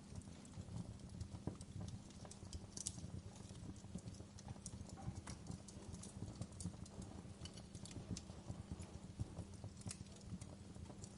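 Wood fire crackling in a fireplace: irregular small pops and snaps over a steady low rumble of the burning logs.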